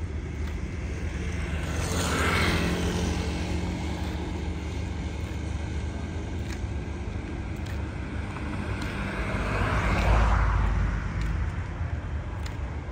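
Low, steady car-engine rumble, swelling louder twice: about two seconds in and, more strongly, about ten seconds in.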